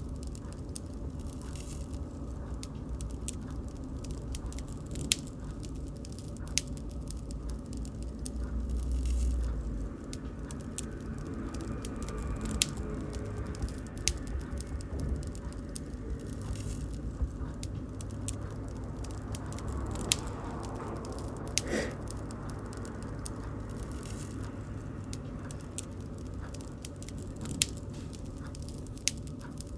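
Wood bonfire crackling: irregular sharp pops and snaps over a steady low rumble of the flames, the rumble swelling briefly about eight to ten seconds in.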